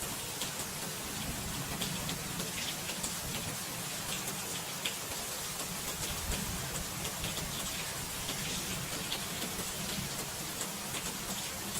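Steady rain falling, with many distinct drop ticks over an even hiss.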